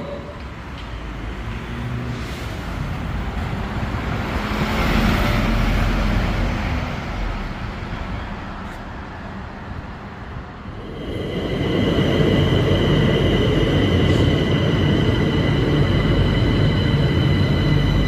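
Train running on rails, its noise swelling and then fading over several seconds. About eleven seconds in, a louder steady rumble sets in with high sustained tones over it.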